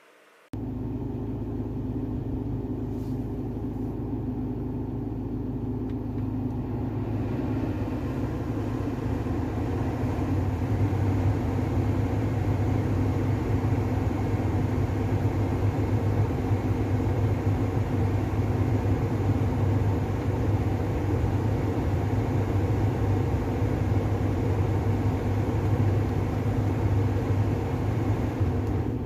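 Ford Ranger's 2.2-litre diesel engine running steadily, a low even hum that starts suddenly and grows a little louder after several seconds.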